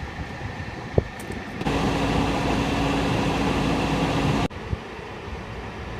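Exhaust fan with a bushing-type motor running steadily, a low motor hum over an even whoosh of air, with no rattle or squeal; it cuts off suddenly a little before the end. A single click comes about a second in.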